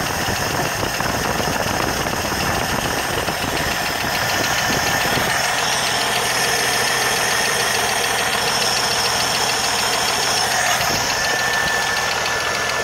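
1980 Jeep CJ7 engine running with a rapid ticking, the ticking noise its owner is tracking down. The low rumble drops away about five seconds in while the engine keeps running.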